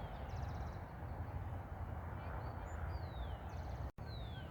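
Small songbirds calling: thin, descending whistles and short rapid trills, repeated several times, over a steady low rumble. The sound drops out for an instant near the end.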